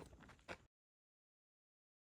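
A couple of faint knocks over light background noise, then the sound cuts out to dead silence about two-thirds of a second in.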